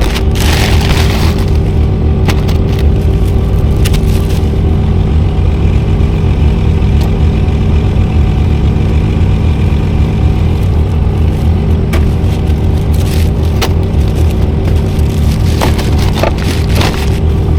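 Semi truck's diesel engine idling, loud and steady, with a few clicks and knocks over it.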